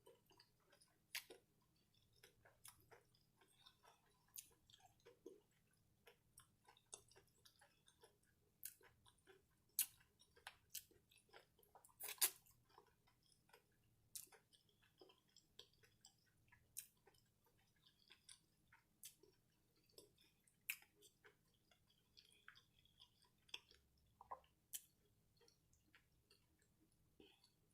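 Chewing fried seafood: faint, irregular crunches and wet mouth clicks, a few every couple of seconds.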